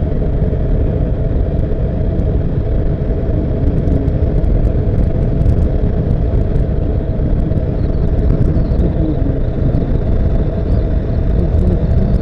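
Honda CBF motorcycle on the move: a steady low rumble of engine and wind noise picked up by an action camera's microphone.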